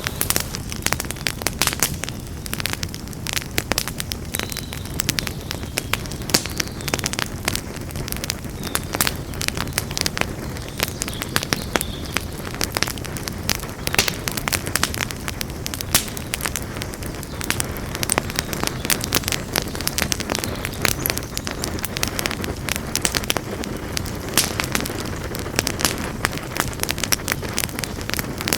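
Campfire burning, with dense irregular crackles and pops of burning wood over a steady low rumble of the flames.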